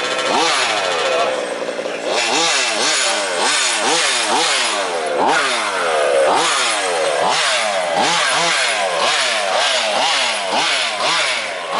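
Small two-stroke petrol engines of several 1/5-scale RC trucks revving again and again. Overlapping engine notes jump up in pitch and slide back down, about one or two a second.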